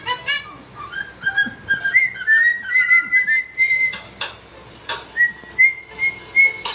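High-pitched whistling: a thin note that wavers and steps upward, then holds steady with small repeated lilts. Two sharp clicks cut in about four and five seconds in.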